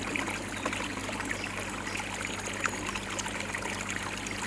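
Pond water trickling and splashing steadily, with many small droplet-like spatters over a low steady hum.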